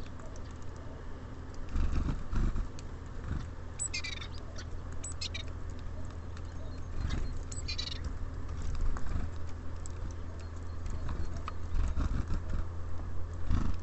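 Small birds at a feeder: a few short high chirps about four, five and seven and a half seconds in, with dull thumps and taps of birds landing and pecking, over a steady low hum.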